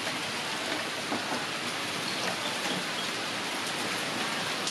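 Steady rain falling on wet pavement, lawn and trees, an even hiss with no breaks.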